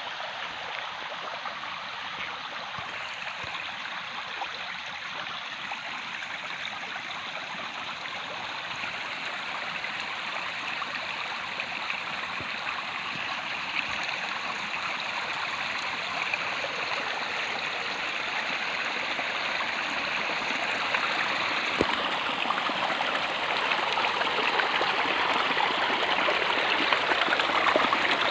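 Water of a stream flowing, a steady rushing that grows gradually louder.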